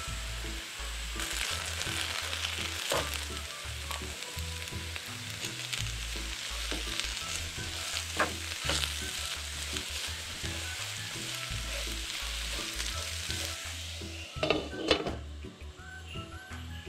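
Diced potatoes and onion sizzling as they fry in oil in a nonstick pan, with a steady hiss. A few sharp clatters break in, the loudest cluster near the end.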